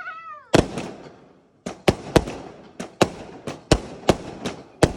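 Fireworks going off in a rapid, irregular series of about a dozen sharp bangs, each with an echoing tail.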